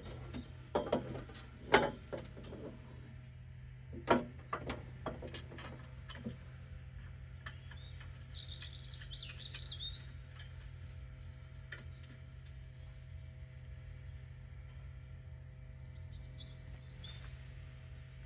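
A few sharp knocks and clicks in the first six seconds, loudest around two and four seconds in. A small bird chirps midway and again near the end, over a steady low hum.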